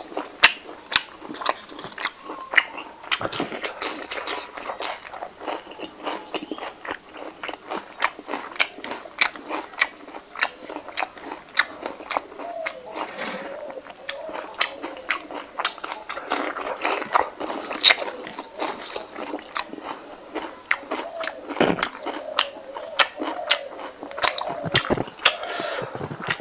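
Close-up wet chewing and lip-smacking of a man eating fatty fried pork belly with his fingers: many sharp, irregular smacks and clicks.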